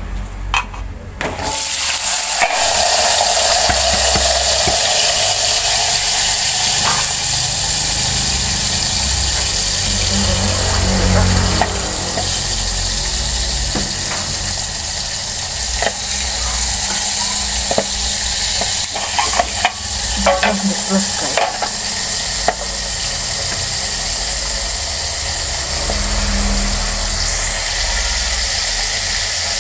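Chillies, tomatoes and shallots for sambal terasi sizzling steadily in hot oil in a steel wok, starting suddenly about a second and a half in, with the wok covered by a metal lid. A few short knocks come about two-thirds of the way through.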